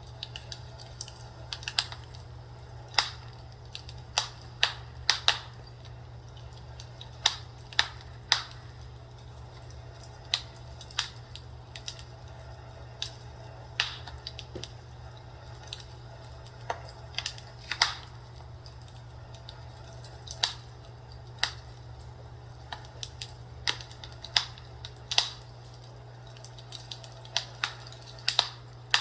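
Fireplace fire crackling, with sharp irregular pops, sometimes one at a time and sometimes several in quick succession, over a steady low hum.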